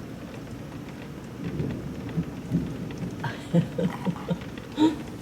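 Steady heavy rain, with irregular low rumbling that comes in from about a second and a half in and peaks twice near the end, likely thunder.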